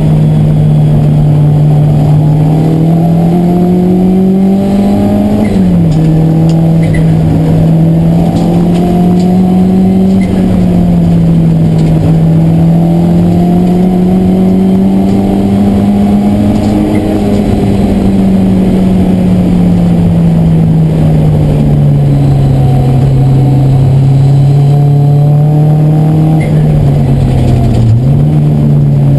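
Race car engine heard loud from inside the cabin under hard driving, its note rising and falling. The pitch drops sharply about five seconds in at an upshift, and dips and jumps back up near the end.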